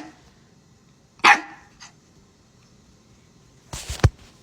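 Dog barking indoors in short bursts: one short bark about a second in, then a louder, harsher burst near the end.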